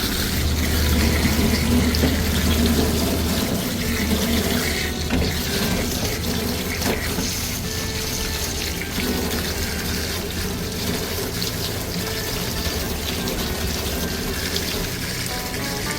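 Water running steadily from a tap and splashing as a dog is washed, with a low rumble in the first few seconds.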